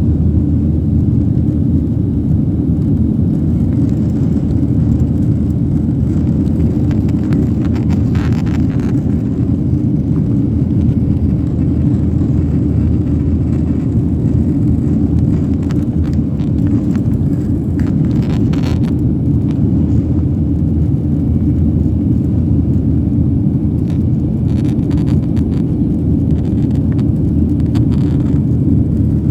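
Airliner cabin noise: the steady low rumble of jet engines and airflow heard from inside the passenger cabin, holding level without rising or falling.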